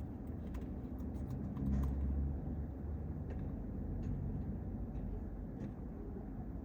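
A car engine's low rumble that swells for a moment about two seconds in.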